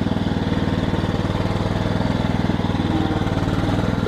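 Small tractor engine running steadily at a constant speed while the tractor is driven slowly.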